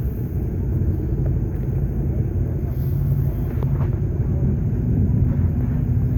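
A car engine running, a steady low rumble with a faint, even hum.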